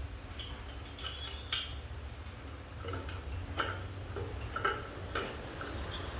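Scattered light metallic clicks and clinks of transmission parts being handled at the case, about half a dozen separate ticks, over a steady low hum.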